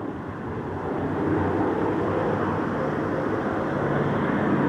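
Spitfire piston aero engine running, a steady drone that grows gradually louder as the aircraft comes closer.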